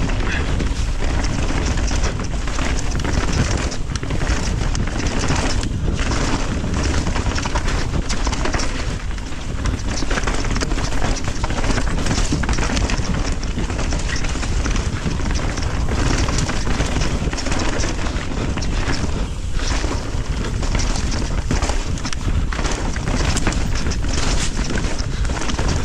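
Wind rushing over the microphone, mixed with the rattle and knocks of a mountain bike riding fast down a rough dirt and rock trail.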